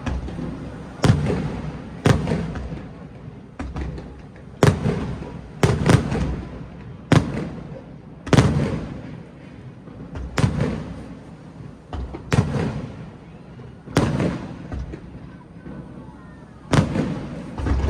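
Aerial fireworks shells bursting: about a dozen sharp booms at irregular intervals of one to two seconds, each trailing off in a rolling echo.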